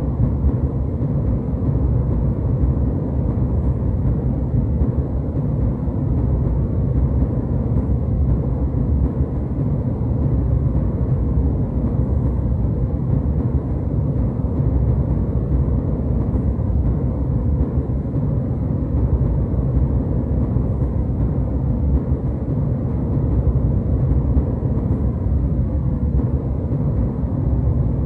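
Jet airliner cabin noise in flight: a steady, even low rumble of engines and airflow that does not change.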